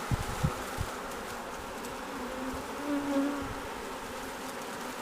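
Honey bee swarm buzzing: the steady hum of many bees in flight around the cluster. About halfway through, one pitched buzz stands out louder for about a second.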